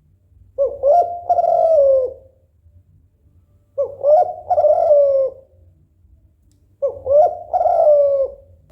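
Female spotted dove cooing in breeding condition, a call meant to draw a male. Three phrases about three seconds apart, each a couple of short notes followed by a longer note that falls in pitch.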